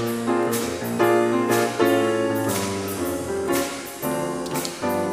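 Piano playing a sequence of struck, sustained chords, a new chord roughly every half second to second.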